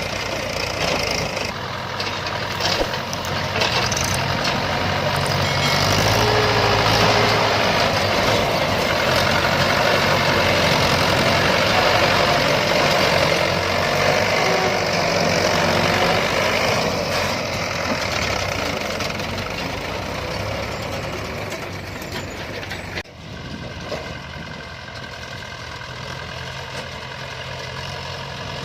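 Heavy diesel machinery working: a JCB 3DX backhoe loader and a Mahindra tractor running loud and rough. The sound drops off suddenly about two-thirds of the way through and settles into a quieter, steady engine running.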